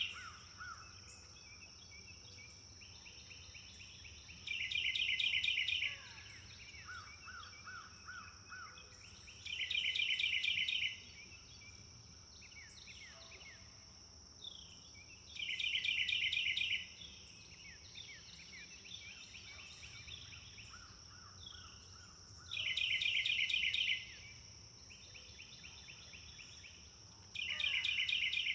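Forest birdsong: one bird sings a loud, rapid trill of about a second and a half, repeated five times, with quieter chirps from other birds in between. A steady high-pitched hiss, like insects, runs underneath.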